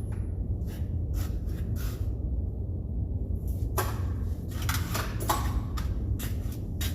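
Metal hand tools clinking and clattering: sockets and wrenches handled and knocked together in a string of short, sharp clinks, over a steady low hum.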